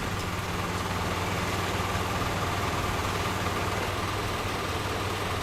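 Engine idling steadily with a constant low hum.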